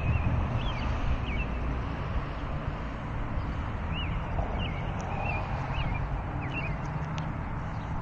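A bird chirping: short rising-and-falling whistled notes in small groups of two or three, over a steady low rumble of wind on the microphone.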